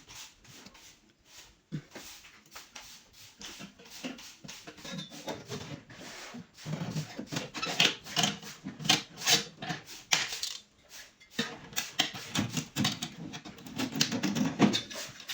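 Irregular scraping and rubbing strokes with light knocks on wood, busier in the second half.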